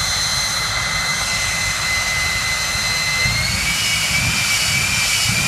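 Jet truck's jet engine running, a loud steady rush with a high whine that rises slightly in pitch about three seconds in.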